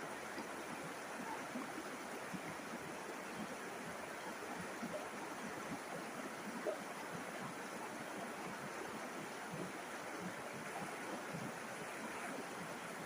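River water flowing and babbling steadily, with small splashes and gurgles scattered through it and one slightly louder splash a little before the middle.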